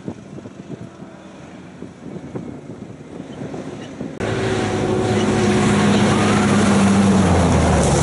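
Wind on the microphone with faint vehicle noise, then, starting abruptly about four seconds in, a Dakar rally race truck's engine running loud and close with a steady deep drone.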